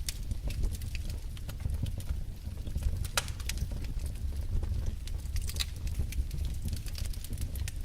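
Wood fire in a fireplace crackling, with irregular sharp pops and snaps over a low steady rumble of burning logs.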